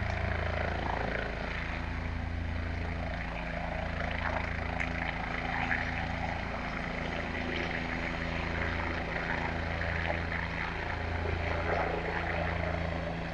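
Medical helicopter flying overhead: a steady rotor and engine drone.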